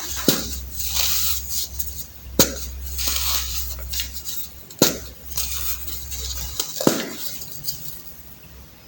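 Crunchy blocks of baking soda being crushed by hand: crackly crumbling broken by four sharp snaps about two seconds apart, dying down near the end.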